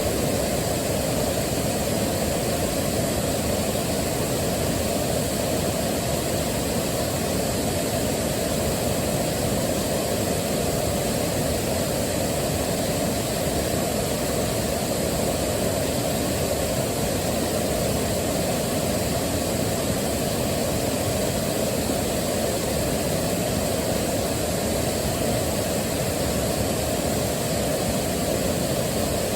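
Waterfall rushing: a steady, unchanging roar of falling water, weighted toward the low end.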